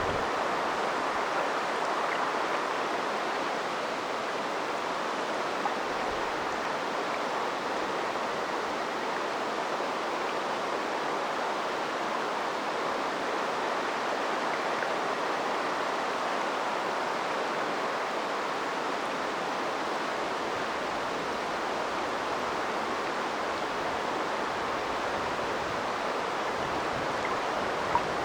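River water flowing over its bed, a steady rushing murmur of a stream.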